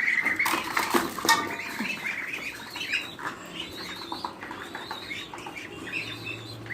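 A pen of young poultry peeping, many short repeated chirps overlapping, after a brief clatter of sharp knocks in the first second or so.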